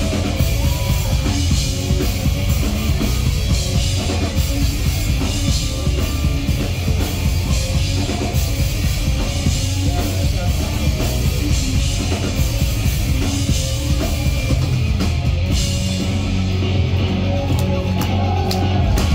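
Live pop-punk band playing an instrumental passage: distorted electric guitars, bass and drum kit at full volume, with no clear vocals.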